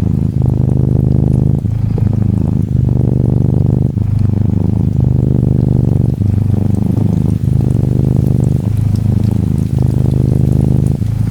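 Norwegian Forest Cat kitten purring steadily, the purr changing with each breath about every second and a bit. Gentle rain patters faintly underneath.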